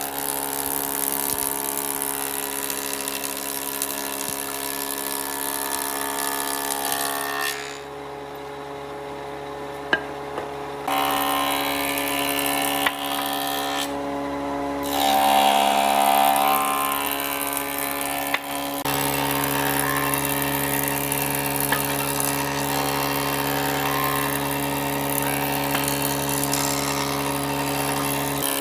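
Electric power tool working wood: a steady motor hum with a harsh hiss of cutting over it. The cutting noise falls away for about three seconds near the middle and again briefly a little later, while the motor keeps running, and a few sharp clicks sound.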